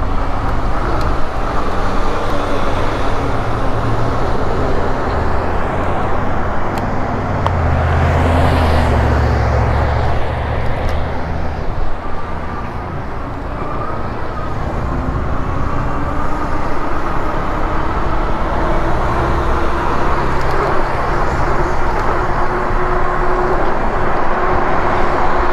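Wind rush and road noise from riding an e-bike along a road shoulder in traffic, with a vehicle passing about eight to ten seconds in.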